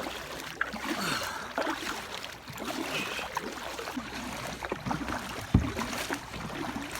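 Floodwater current rushing and splashing around a kayak being paddled against it, with scattered small knocks and one low thump about five and a half seconds in.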